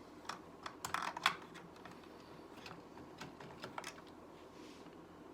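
Small plastic Lego pieces clicking and clattering as they are handled and fitted: a quick cluster of clicks about a second in, then a few scattered single clicks.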